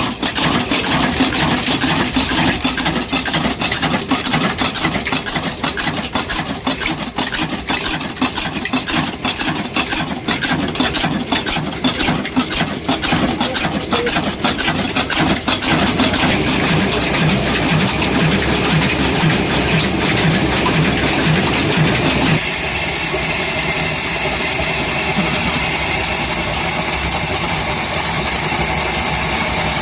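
Old black slow-speed engine, rated 26 hp at 300 rpm, running with dense rapid knocking and hiss; the knocking gives way to a steadier low throb about 16 seconds in. The sound changes abruptly about 22 seconds in.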